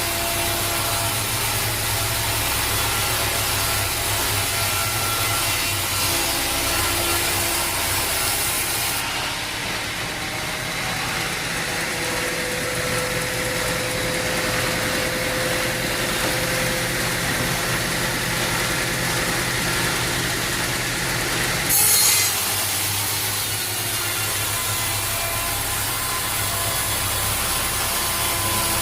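Sawmill saw running steadily through wood, a continuous mechanical cutting noise with a brief louder crack about two-thirds of the way through.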